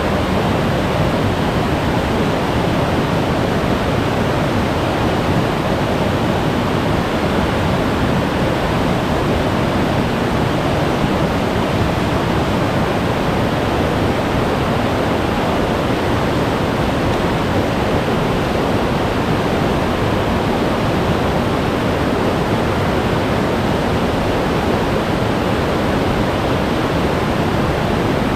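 Glacier-fed mountain stream rushing over rocks, a loud, steady roar of whitewater with no let-up.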